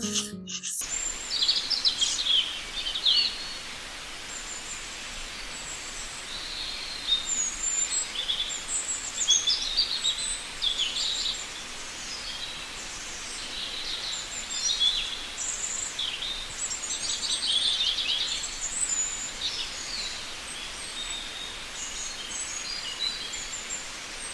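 Birds chirping and twittering, many short high calls overlapping, over a steady hiss.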